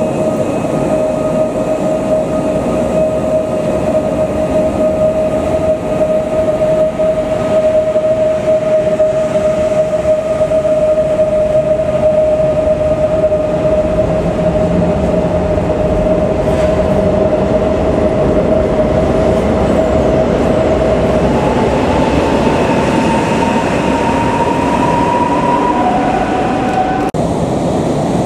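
PKP Intercity electric passenger train running along an underground station platform: a loud, steady rumble of wheels under a steady whine. About two-thirds of the way through, the whine climbs in pitch as the train picks up speed.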